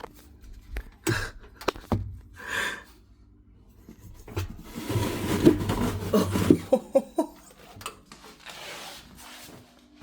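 A woman's wordless breathy vocal sounds and breaths, with a few small knocks and handling noises.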